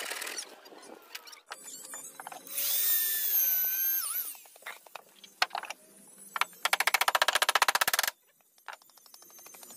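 Power drill used on wood in short runs: a motor whine that sags in pitch under load and recovers, then near the end a loud burst of rapid, even rattling pulses. Scattered clicks and knocks come in between.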